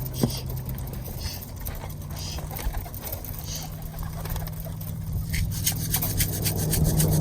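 Birmingham roller pigeons jostling at a loft trap: scattered rustles and wing flutters, becoming a quick run of flutters near the end, over a steady low hum. A sharp click comes just after the start.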